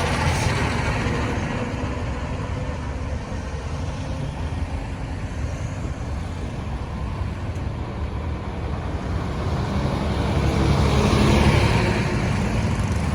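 Busy road traffic: a steady rumble of vehicle engines and tyre noise, growing louder near the end.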